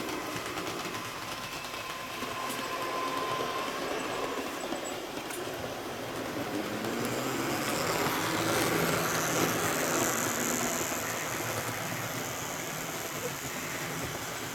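Model train running on the layout's track with a steady motor whirr and wheel rumble. It grows louder about halfway through, as if passing close, then eases off.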